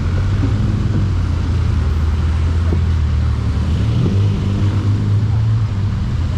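Motorcycle engine running low and steady in traffic, its pitch shifting slightly about four seconds in.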